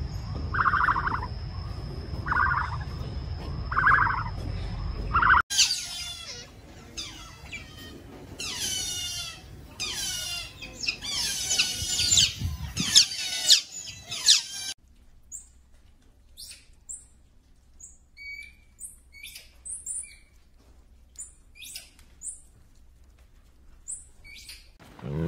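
Three animals in turn. First an ostrich gives four short calls over a low rumble. Then an otter makes about nine seconds of rapid, falling chirps and squeaks, and finally a squirrel monkey gives sparse, short, high peeps.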